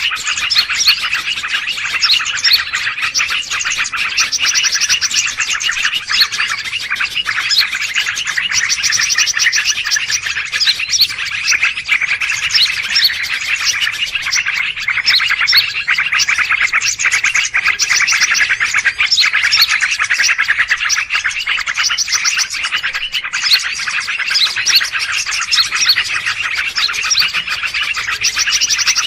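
A dense chorus of many small birds chirping and twittering without a break, with rapid overlapping calls. It is a 'noisy birds' lure recording played to attract wild birds.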